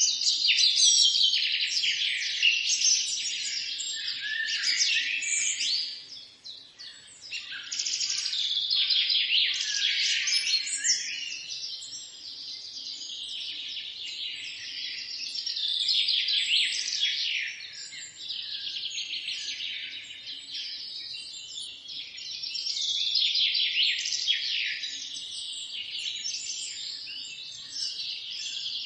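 Several songbirds singing and chirping at once in a dense, continuous chorus of quick high trills and chirps, dipping briefly about six seconds in.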